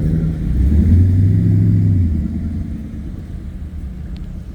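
A car engine running with a low, deep exhaust rumble that swells about half a second in, is loudest for the next second and a half, then fades away.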